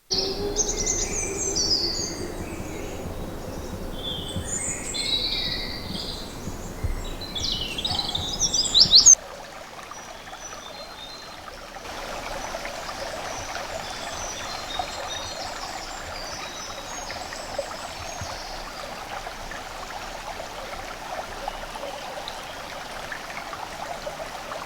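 Woodland birds singing, with quick chirps and trills and a loud burst just before the song cuts off suddenly about nine seconds in. After the cut there is a steady even rushing noise with faint, distant bird calls over it.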